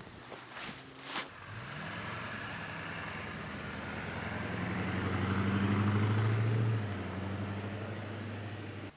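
A motor vehicle's engine running on a snowy road, building to its loudest around six seconds in and then easing off, with tyre and snow noise over it. A few sharp clicks or knocks come in the first second or so.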